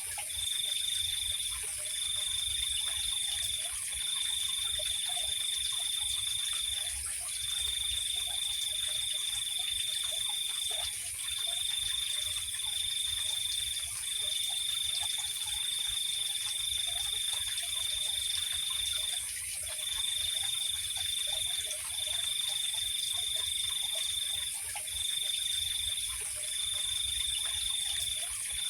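Night chorus of insects and frogs. One insect trills on a steady high pitch in long runs of one to four seconds with short breaks, over a constant higher insect hiss. Scattered faint frog calls and a low rumble sit underneath.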